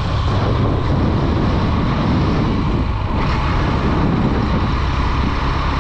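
Honda Dream 110's single-cylinder four-stroke engine running steadily on the move, with wind and road noise rushing over the microphone.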